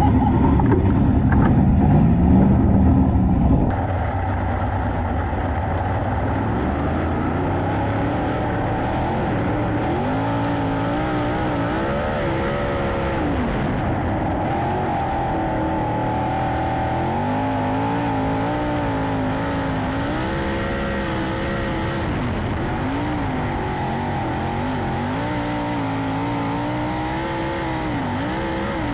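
Sprint car engines racing around a dirt oval, their pitch rising and falling every few seconds as the cars accelerate down the straights and lift for the turns. A louder, rougher stretch of engine noise cuts off about four seconds in.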